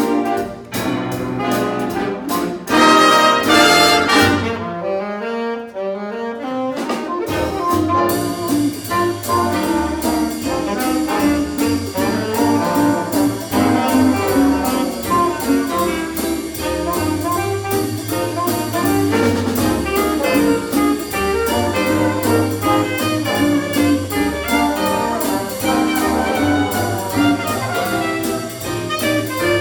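Big band playing a swing jazz chart with trumpets, trombones and saxophones. A loud ensemble passage gives way to a few seconds of horns alone without the rhythm section, then the band swings on with a steady cymbal beat and walking bass under the horns.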